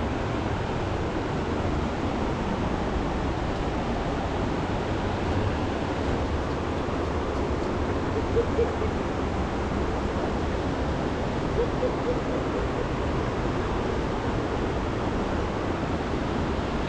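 Steady rushing of a river in heavy flood, with two brief faint tones about eight and twelve seconds in.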